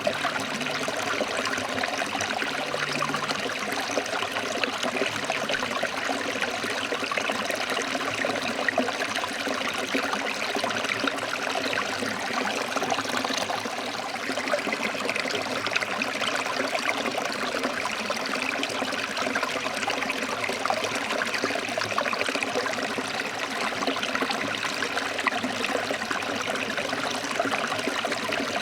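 Water flowing over rocks, a steady rushing with fine trickling and splashing that doesn't change.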